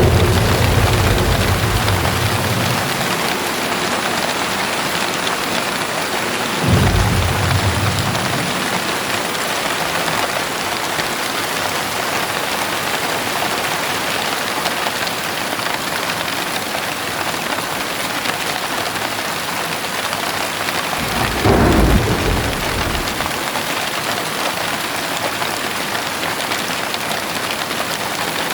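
Steady heavy rain with thunder. A rumble fades over the first few seconds, then short thunder rolls come about seven seconds in and again past twenty-one seconds.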